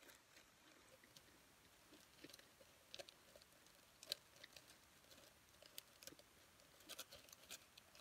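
Chips being chewed close up: faint, irregular crunching and crackling, with the sharpest crunch about four seconds in.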